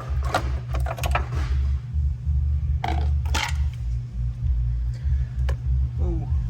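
Metal hand tools and parts clinking and rattling against each other in a few separate bursts, over a steady low hum.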